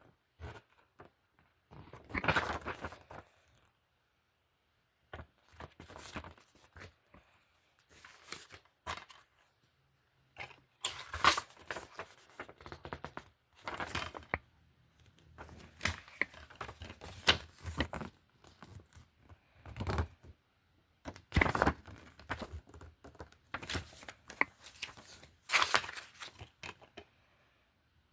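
Plastic DVD and Blu-ray cases being handled, shuffled and set down: irregular clacks, clicks and rustles with short pauses between them.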